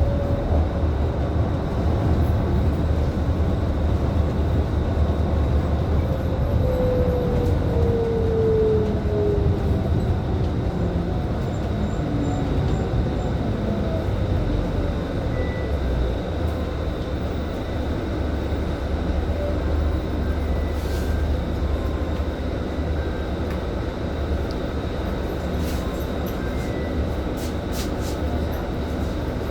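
Scania K310IB city bus on the move: a steady low engine and road rumble, with a whine that falls in pitch about six to ten seconds in.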